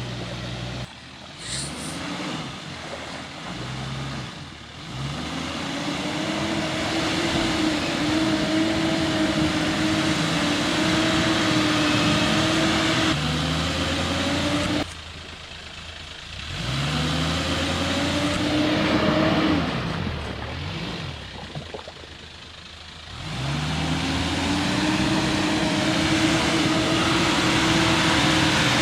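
Nissan Safari 60-series engine revving hard under load as the truck works its way out of where it got stuck. The revs climb and hold high three times, dropping off twice in between.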